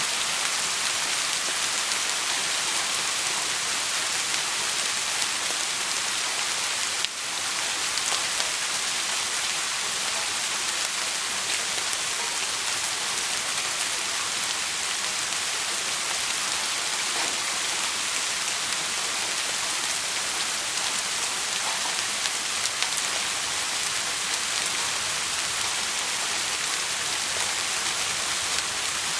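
Steady, dense rain falling, an even hiss with a brief dropout about seven seconds in.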